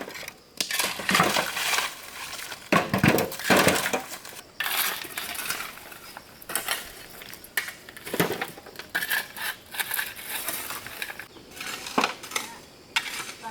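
Irregular clinks and clatters of hard objects being handled, like dishes and utensils knocking together.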